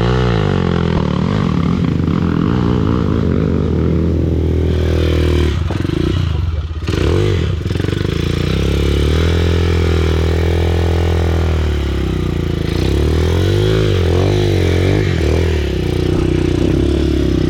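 Honda CRF230F's air-cooled single-cylinder four-stroke engine running under load on a trail ride, revs rising and falling with the throttle and dropping off briefly about six seconds in. It is the freshly overhauled engine whose ticking noise the rider says has come back.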